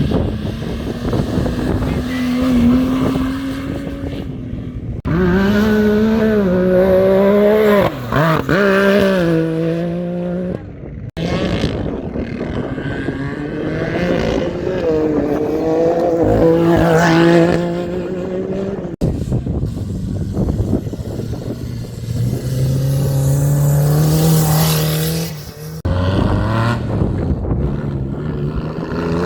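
Off-road racing motorcycle engines revving, the pitch climbing and dropping with throttle and gear changes, broken by several abrupt changes from one burst of riding to the next.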